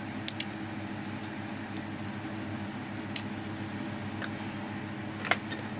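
Electric fan running with a steady low hum and airy hiss. A few short sharp clicks sound over it, the loudest about three seconds in.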